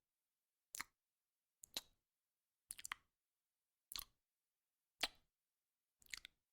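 Near silence broken by faint, sharp ticks about once a second, a few of them doubled.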